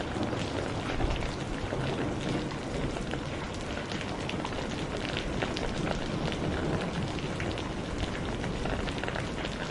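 Steady rain falling on a hard surface, with many individual drops striking throughout.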